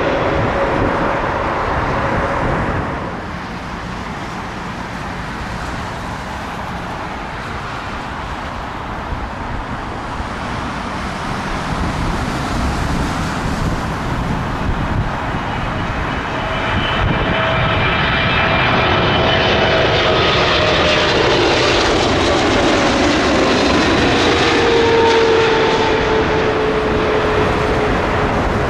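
Jet airliner engines passing low overhead on approach. The noise drops away after about three seconds, then builds again from about halfway, with whining tones that fall in pitch as the aircraft goes over, loudest near the end.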